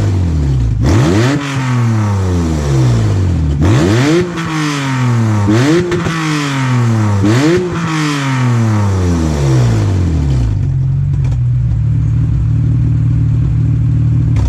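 Acura NSX V6 engine revved in four quick blips, each rising fast and falling back slowly, then settling to a steady idle about ten seconds in. The exhaust is totally busted, with holes in the top and a pipe broken in two places, which leaves the car basically straight-piped.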